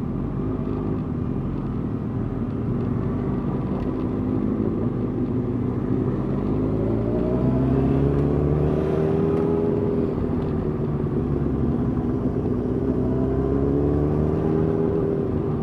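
Motorcycle engines running at low speed in a group ride, the pitch rising twice as the throttle is opened and easing back as it is closed.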